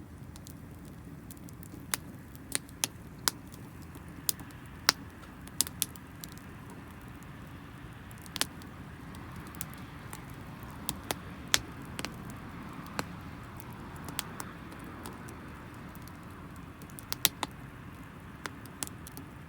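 Wood fire crackling: irregular sharp pops and snaps from burning, still-damp firewood over a steady low rumble of the flames.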